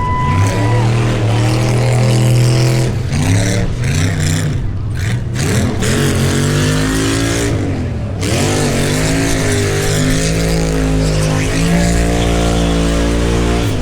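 V8 engine revving hard in a burnout, held at high revs with several quick dips and climbs, then dropping off at the end.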